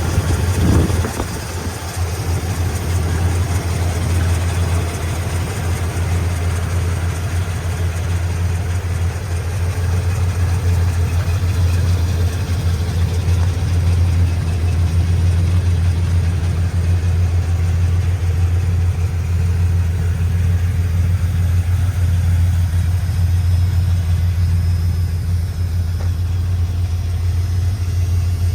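1986 Ford F250's 460 V8 idling steadily with a deep, even hum through its new exhaust and mufflers, with a brief blip of revs near the start.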